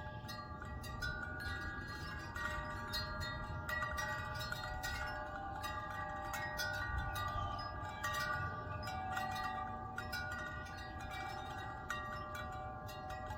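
Wind chimes ringing in a breeze: metal tubes struck again and again, their tones overlapping and ringing on, over a low rumble of wind.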